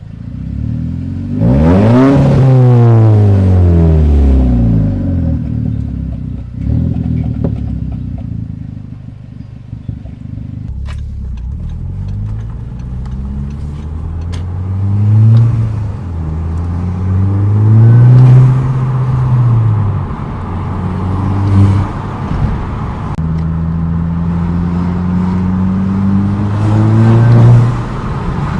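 Audi TT's turbocharged 2.0 TFSI four-cylinder being driven on an exhaust with the centre muffler cut out. The engine revs rise and fall several times under acceleration and lift-off, with a sharp climb and drop about two seconds in.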